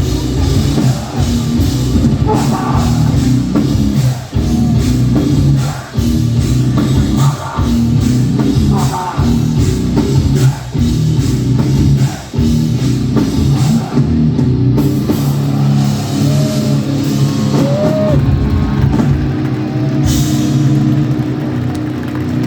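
A live hardcore band playing loud distorted guitars and bass over pounding drums. About fourteen seconds in the drum beat drops out and held chords ring on, with a cymbal crash near the end.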